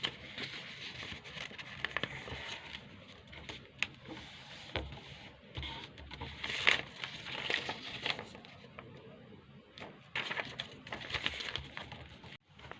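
A sheet of paper being folded and creased by hand: on-and-off rustling and crinkling with a few sharp snaps as the folds are pressed down.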